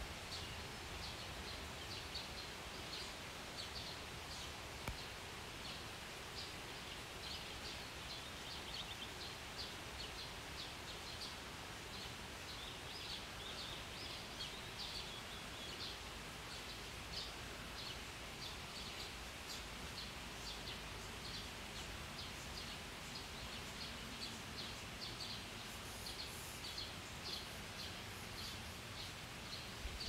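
Birds chirping over a steady low background hiss, with many short high calls coming irregularly throughout.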